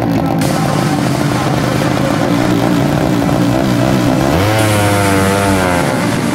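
Drag-racing underbone motorcycle engine revving, its pitch dipping and rising and then climbing and wavering near the end.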